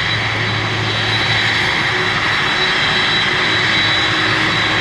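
Jet aircraft engines running steadily, with a constant high whine over a broad rush of engine noise.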